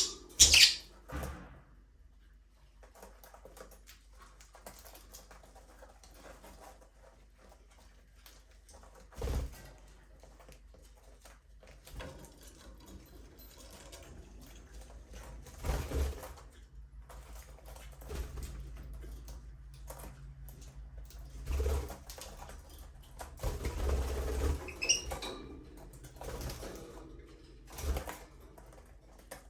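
Budgerigars in a small aviary: scattered sharp knocks and rattles, the loudest two right at the start, with a few faint short chirps near the end.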